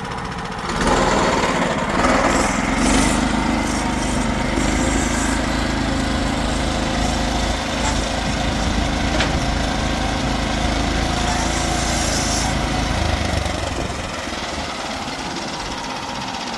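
Portable band sawmill's gas engine revving up about a second in and running under load as the band blade saws through a log, with a hissing, rasping cut on top. It drops back to idle near the end.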